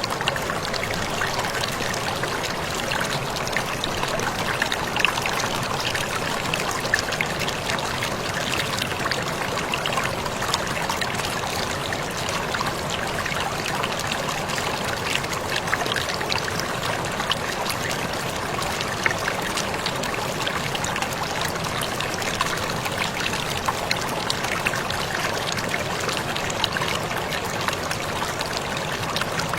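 Waterfall splashing steadily: a continuous rush of falling water with many small splashes and drips.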